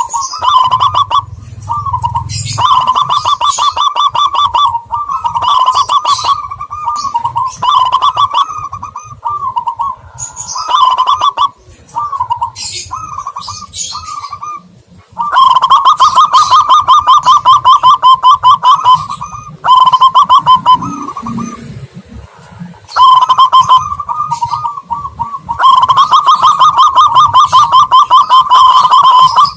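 Doves cooing in fast, rattling trilled phrases of a few seconds each, with short gaps and thin higher chirps between them: a played-back lure recording of perkutut (zebra dove) and terkukur (spotted dove) calls.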